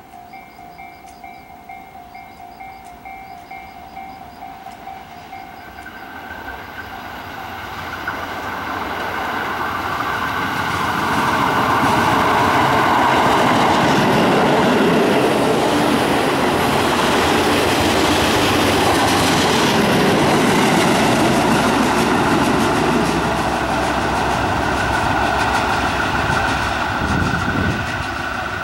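Level crossing warning bell ringing in a steady repeating two-tone pattern for the first few seconds. A Tobu 8000 series electric train then approaches and passes close by, its wheels clattering over the rail joints, loud for about ten seconds before easing off near the end.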